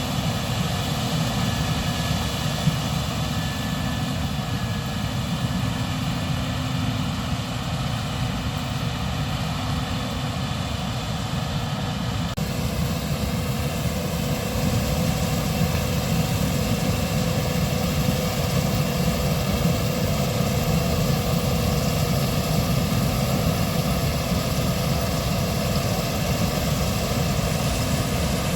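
Case IH 6140 combine running steadily while harvesting corn, a continuous heavy engine drone with steady machine tones. The tone of the drone shifts about twelve seconds in.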